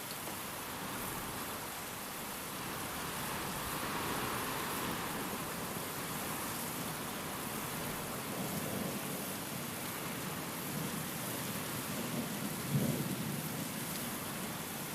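Steady rain with a low rumble of thunder that builds in the second half and peaks sharply about three seconds before the end.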